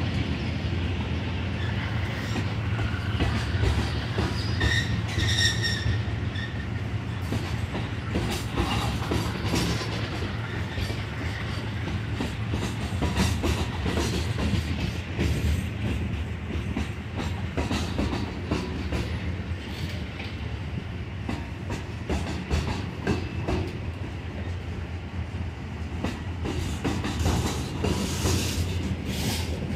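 Freight train of covered hopper cars rolling past close by: a steady rumble of steel wheels on rail with clicking over the rail joints. A brief high wheel squeal comes about five seconds in.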